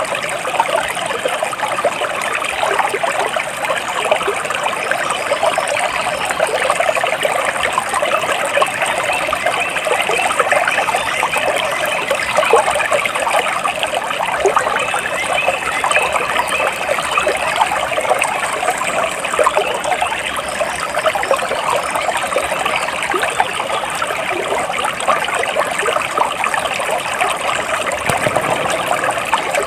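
A stream of water trickling and babbling steadily, an even rush of splashing and gurgling that neither rises nor falls.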